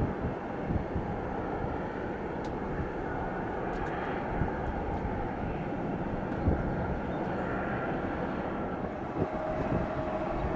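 Jet airliner engines running, a steady rush with a faint whine, with wind buffeting the microphone; a steadier engine tone comes in near the end.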